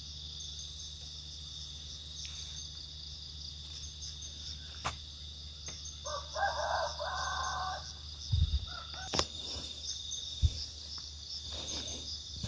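A rooster crows once about six seconds in, a single drawn-out crow of under two seconds, over a steady high insect drone. A few sharp knocks and thumps follow in the second half.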